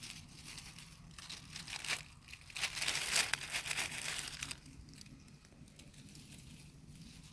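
Dry leaf litter rustling and crunching in several noisy spells, loudest about three to four seconds in, then dying away to faint background.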